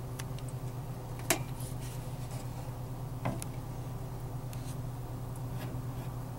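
Water dripping off a thawing walk-in freezer evaporator coil onto its electric defrost heaters, sizzling in scattered sharp crackles, the loudest about a second in and another about three seconds in, over a steady low hum. The sizzling is the sign that the defrost heaters are working.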